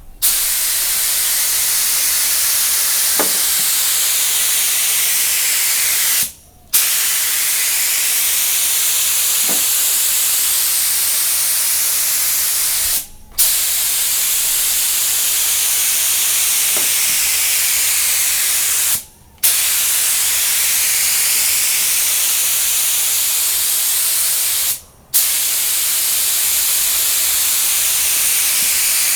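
Compressed-air paint spray gun hissing in long, steady passes. Four times the trigger is released and the hiss stops for about half a second. These are practice passes while the gun is being dialled in.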